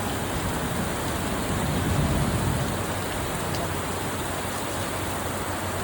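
Heavy downpour: a steady hiss of rain, swelling slightly about two seconds in, with a faint low steady hum underneath.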